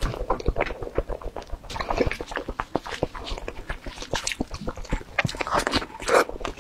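Close-miked eating sounds of a soft yellow towel-roll cake being bitten and chewed: wet chewing, lip smacks and many quick mouth clicks.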